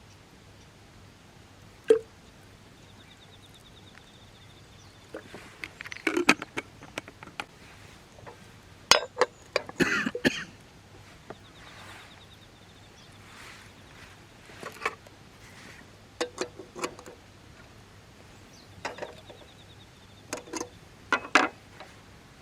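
Camp cookware and utensils clinking and knocking as they are handled, in scattered bursts of sharp taps.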